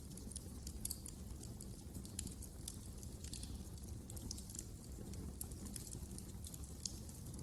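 Fire in a fireplace crackling: irregular small pops and snaps over a low steady rumble of flames.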